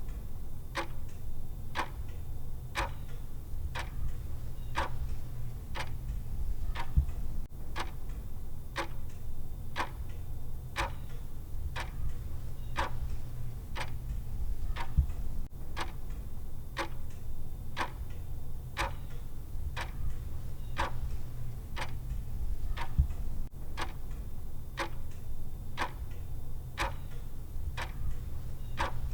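A countdown timer's clock tick sound, ticking at an even, regular pace over a low steady hum.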